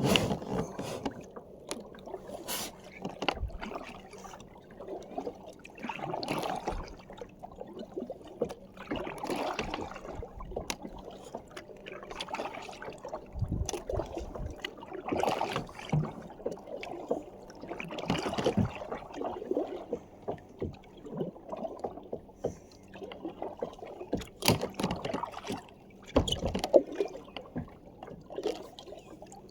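Water splashing and lapping around a kayak, rising in surges every two to three seconds, with a few sharp knocks.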